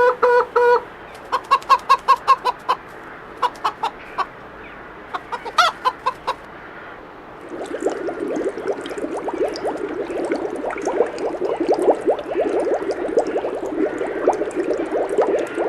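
Chickens clucking: short runs of quick, pitched clucks with a louder single call about five and a half seconds in, then from about seven seconds a denser, continuous chatter of many birds.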